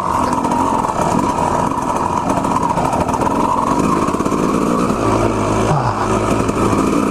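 Two-stroke dirt bike engine running while ridden, its pitch shifting with the throttle, with a quick rise in revs about six seconds in.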